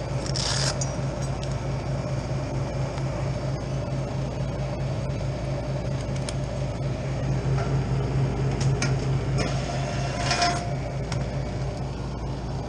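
Old freezer's condensing unit running, a steady low hum from the compressor and condenser fans. Two brief scraping rustles, one shortly after the start and one about ten seconds in.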